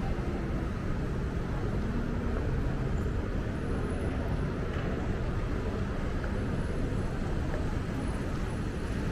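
Steady urban background noise dominated by a low traffic rumble, even throughout with no distinct events.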